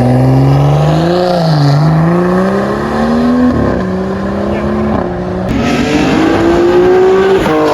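A performance car's engine accelerating hard from a launch, its pitch climbing and then dropping back at each of several quick upshifts.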